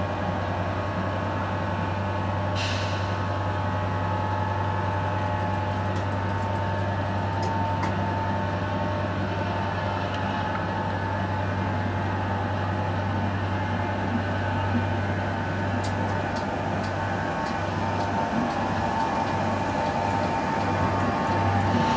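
Transport for Wales passenger train hauled by a Class 67 diesel locomotive, rolling slowly through the station: a steady low diesel drone with a steady whine above it. A short hiss of air comes about two and a half seconds in, and a few light clicks come near the end.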